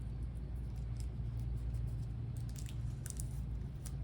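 Faint crinkles and clicks of tape and paper being handled and pressed down, a few of them about two and a half and three seconds in, over a steady low hum.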